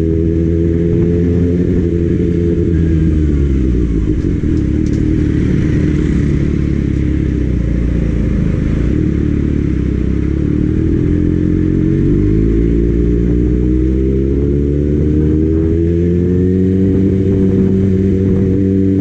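Kawasaki Ninja ZX-6R's inline-four engine heard while riding: its note falls as the bike slows about two to four seconds in, stays low for several seconds, then rises steadily through the gears of acceleration from about eleven seconds on. Wind noise rushes over the microphone throughout.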